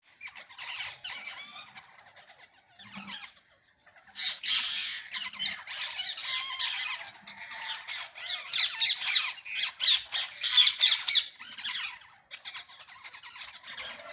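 Parrot squawking in long runs of rapid calls, with a short pause about four seconds in; the calls are loudest in the middle stretch.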